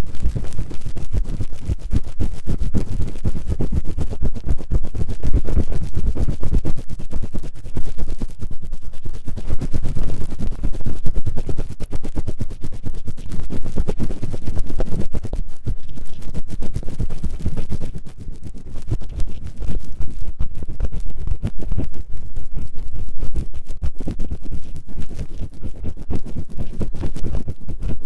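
Ear-cleaning tool scratching fast and hard inside the ear of a 3Dio binaural microphone: a dense, unbroken run of rapid rubbing strokes, briefly softer about 18 seconds in.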